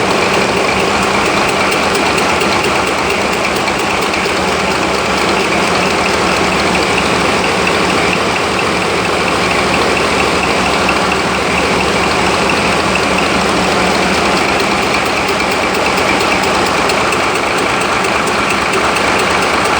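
Ship's engine running loudly and steadily at an even speed, with a fast, regular pulse.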